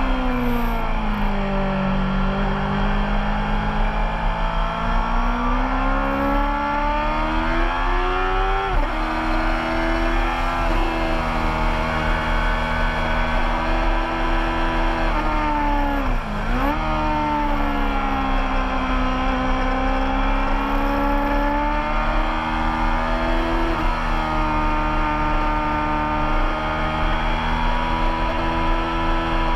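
Racing motorcycle engine running hard on track, its pitch falling at the start and then climbing under acceleration, with sudden drops at gear shifts about nine and twenty-four seconds in. Around sixteen seconds in the revs dip deeply and climb straight back.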